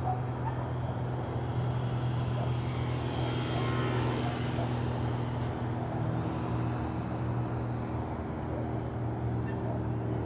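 An aircraft flying low past the microphone, swelling to a peak about four seconds in and then fading with a falling pitch, over a steady low hum.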